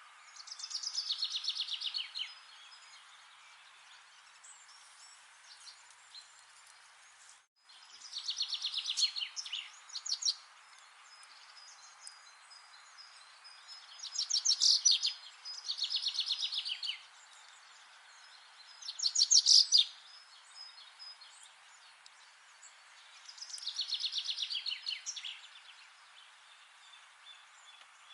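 A songbird singing short trilled phrases of rapidly repeated notes, each one to two seconds long and falling in pitch, six phrases in all with pauses of a few seconds between, over a steady background hiss.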